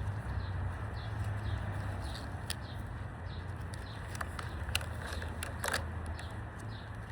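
Outdoor background with a steady low hum, a small bird chirping over and over about twice a second, and a few sharp clicks or snaps partway through.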